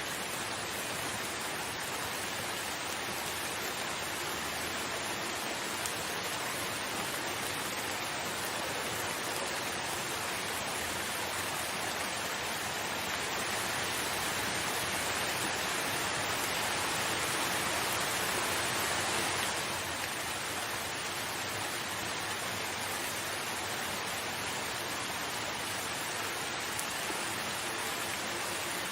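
Steady heavy rain, a dense even hiss. It grows a little louder for several seconds past the middle, then drops back suddenly.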